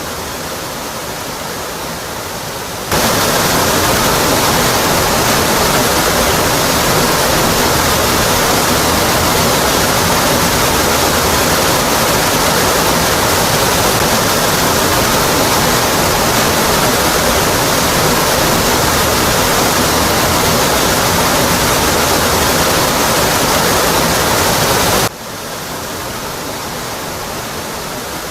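Waterfall tumbling onto rock: a steady, full rush of water. About three seconds in it jumps suddenly louder and brighter, then drops back just as suddenly near the end.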